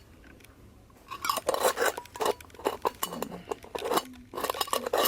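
Hard small objects being handled and set down: a quick run of clinks, taps and clatters that starts about a second in.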